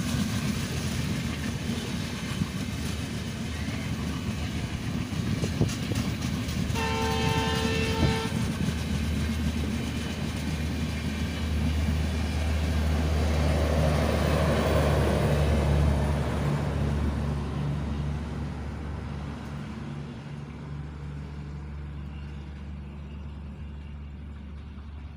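Passenger train's coaches rolling past, wheels clattering over the rail joints, with one short horn blast from the WDM-3A diesel locomotive about seven seconds in. A steady low drone swells as the last coaches go by around halfway, then the rumble fades as the train pulls away.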